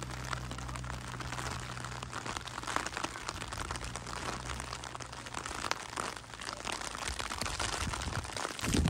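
Typhoon rain and wind outdoors: a steady hiss of rain with dense crackling throughout, and a low steady rumble that fades after about the first three seconds.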